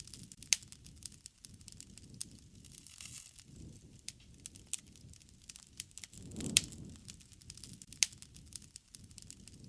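Wood fire crackling, with sharp pops scattered throughout over a soft low rush of flame. About six and a half seconds in, the rush swells and a louder pop breaks out.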